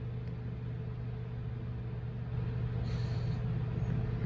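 Fire engine's diesel engine idling steadily as a low hum, with a short hiss about three seconds in.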